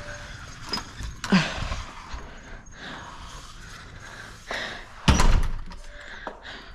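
Clicks and knocks of gear being handled, with a sharp knock about a second and a half in and a heavier thump about five seconds in.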